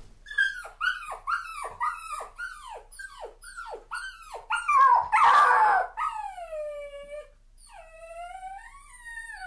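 A dog yelping over and over, each yelp sliding down in pitch, about two or three a second. A louder, harsher yelp comes about five seconds in, then long drawn-out whines, the last one rising and then falling.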